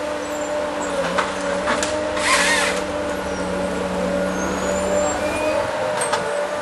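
Tree-felling harvester's engine running steadily with a whining tone, with a few sharp clicks and knocks and a brief hissing burst about two seconds in.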